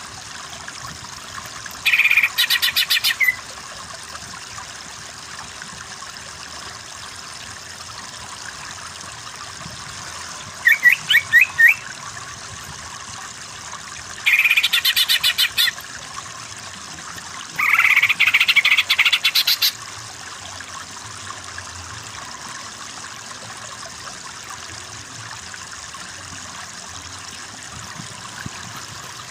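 Green leafbird (cucak ijo) giving four bursts of fast, rapidly repeated high chattering notes, each a second or two long, over a steady trickle of running water.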